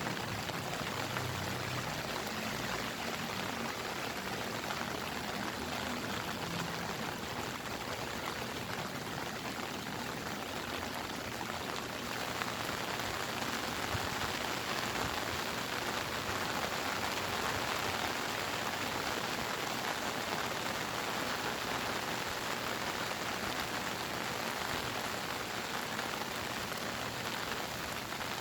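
Steady rainy-season rain falling on surfaces, an even wash of many drops, a little louder through the middle.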